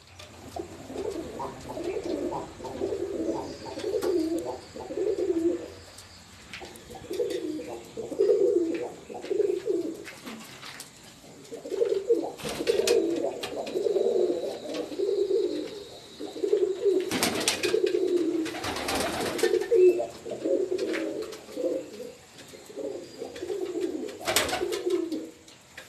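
Pigeons cooing over and over in low, rolling phrases, with a few short noises in the middle and near the end.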